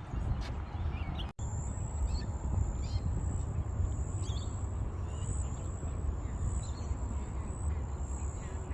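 Birds chirping and calling over a steady low rumble of wind on the microphone. The sound drops out for an instant about a second in, and a thin, steady high whine runs on after it.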